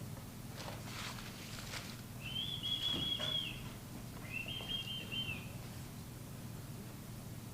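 Two long, high, bird-like whistled calls, each held steady with a slight warble for a little over a second, one after the other. Before them come a few faint knocks.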